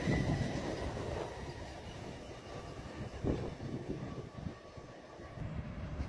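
A train running on the line, a low rumble that fades away over several seconds and picks up again near the end.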